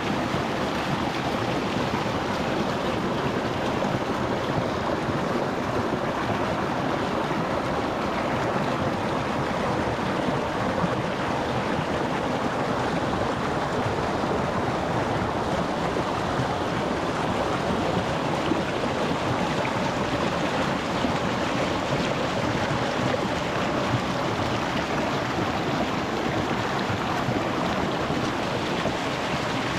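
Rocky mountain stream flowing over stones, a steady rush of water heard from close to the water's surface.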